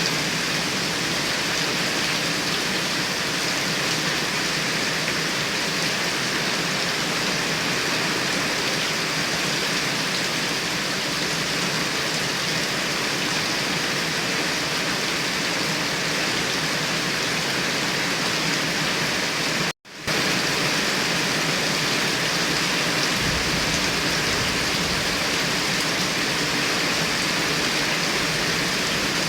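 Heavy rain pouring steadily, a dense even hiss of drops on surfaces. It cuts out for a split second about two-thirds of the way through, and a low rumble joins in near the end.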